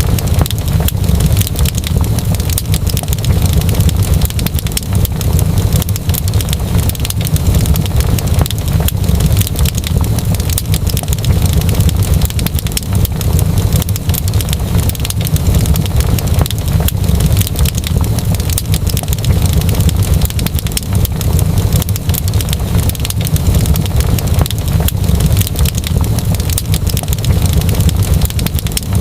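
Fire burning in a fireplace: a steady low rumble with dense, rapid crackling throughout.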